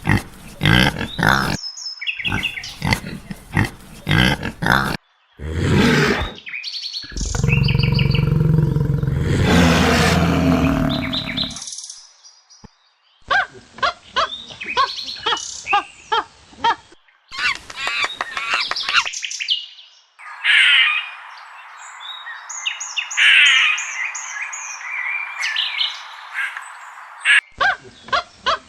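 A run of separate animal-call clips cut one after another: short bird calls and chirps, with one longer, loud, low pitched call about a third of the way in.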